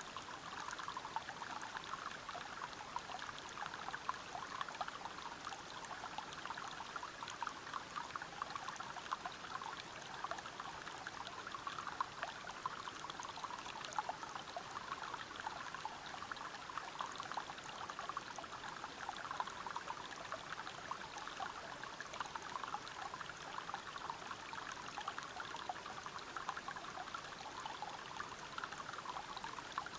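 River water splashing over rocks below a small waterfall: a steady, even rush with fine, quickly flickering splashes.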